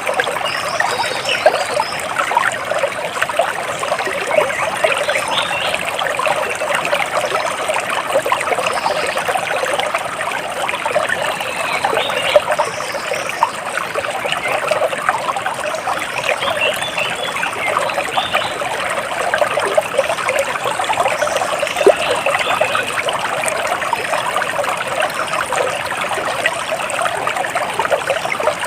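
Water trickling and splashing steadily, like a small stream running over stones, with many small droplet splashes.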